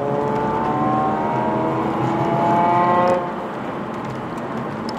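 Nissan Fairlady Z34's 3.7-litre V6 engine, heard from inside the cabin, rising in pitch as the car accelerates, then dropping off sharply about three seconds in as the throttle is lifted, leaving a quieter engine drone and tyre noise.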